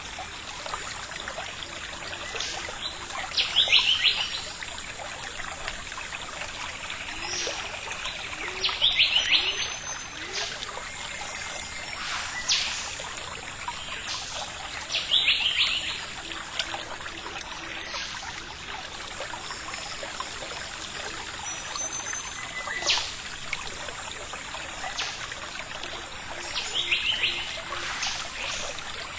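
Birds calling in several short bursts of high chirps, with sharp single notes in between, over a steady hiss of background noise like running water.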